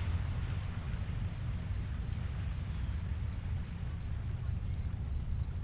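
Quiet ocean surf from small waves at low tide: a steady low rumble of the sea. A faint high ticking repeats a few times a second through the second half.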